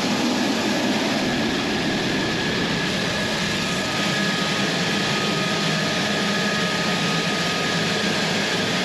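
F-16 Viper's jet engine running steadily at ground idle during pre-flight checks: an even rushing noise with a faint, steady high whine over it.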